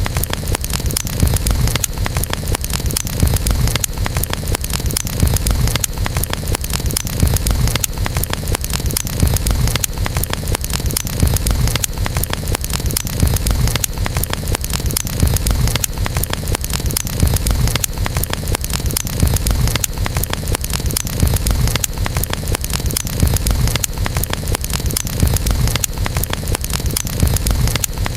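Campfire burning steadily: a constant low rush with dense, continuous crackling of burning wood.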